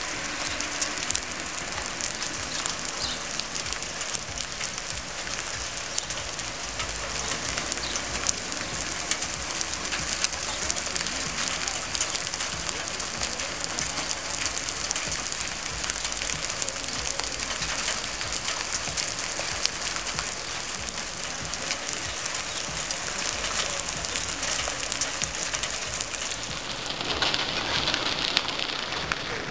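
Heavy rain falling on an asphalt road: a steady, dense hiss of splashing drops, growing a little louder near the end.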